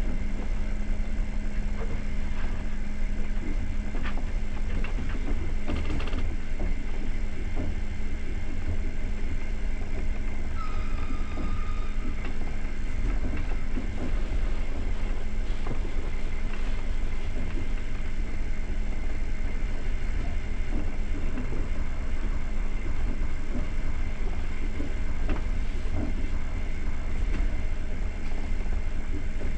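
Passenger train carriage running along the track, heard from inside: a steady heavy rumble of wheels on rails with a low constant hum and scattered knocks. A brief high tone sounds about eleven seconds in.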